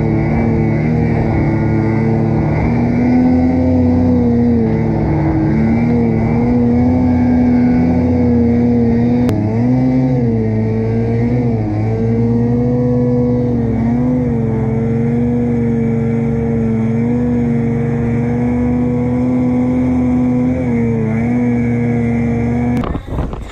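Snowmobile engine running hard at high, steady revs. Its pitch dips briefly a few times, then it cuts off abruptly near the end.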